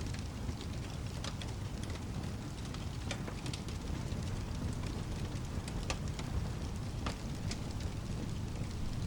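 Rain-and-fireplace ambience: a steady low rumble of rain with scattered sharp crackles and pops from a wood fire.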